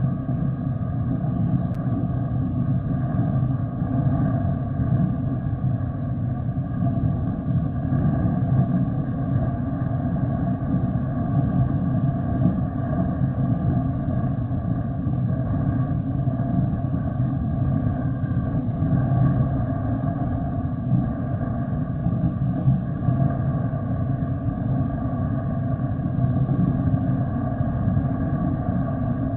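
Jet aircraft engines running at a steady setting: a continuous low rumble with several steady whining tones above it, neither rising nor falling.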